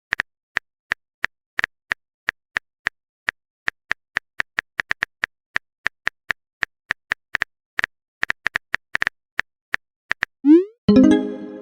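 Phone on-screen keyboard typing clicks, short sharp taps at an uneven two to four a second. Near the end comes a quick rising swoosh and then a short pitched tone, the sound of a message being sent and arriving.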